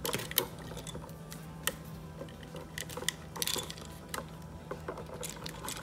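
Scattered small clicks and taps of hands working electrical wires and small plastic wiring parts, over a low steady hum.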